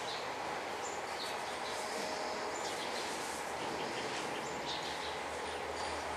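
Steady background hiss with short, faint bird chirps scattered through it.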